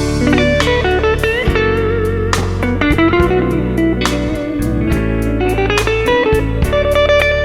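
Electric guitar solo in a blues-rock song, the lead line full of string bends and vibrato, over bass and drums.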